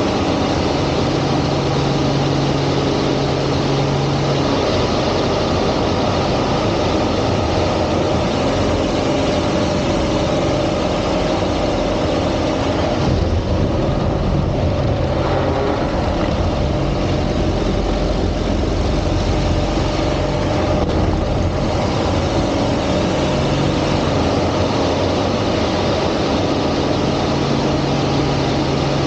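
Aerobatic airplane's piston engine and propeller running with a steady drone under a constant rushing hiss; a low tone in the drone fades and returns a few times as the sound shifts.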